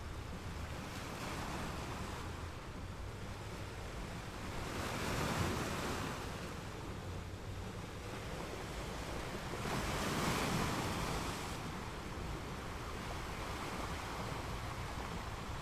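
Sea water washing and slapping with wind buffeting the microphone, a steady rushing that swells twice, about five and ten seconds in.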